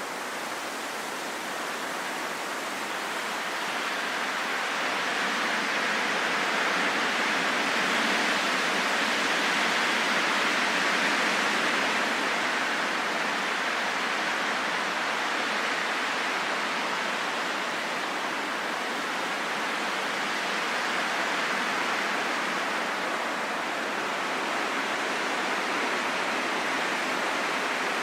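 Steady rain falling, a dense even hiss that grows a little louder over the first ten seconds or so and then holds.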